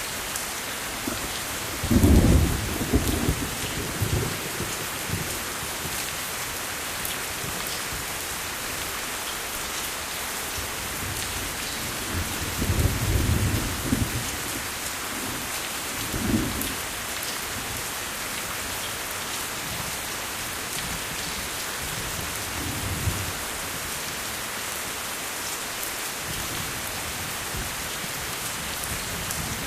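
Steady rain falling, with low rolls of thunder over it: the loudest about two seconds in, another around twelve to fourteen seconds, and shorter ones around sixteen and twenty-three seconds.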